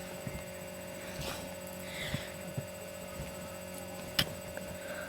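Steady electrical hum with a few faint knocks and one sharp click about four seconds in.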